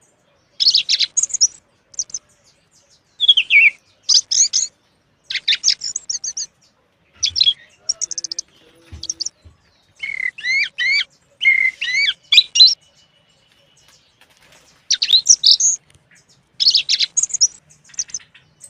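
A songbird singing in short, high, quick phrases separated by brief pauses, with a longer run of sweeping notes about two-thirds of the way in.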